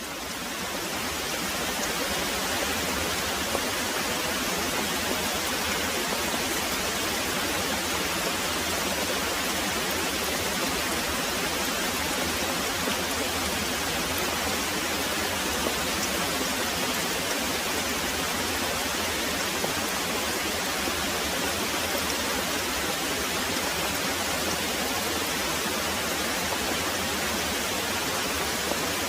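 Very heavy rain pouring steadily as an even hiss, fading in over about the first second.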